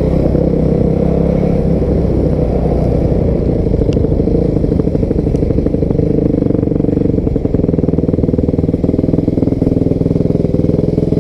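A 250 cc dirt bike's engine running at a fairly steady speed, without big revs. From about six seconds in it settles into a lower, evenly pulsing note.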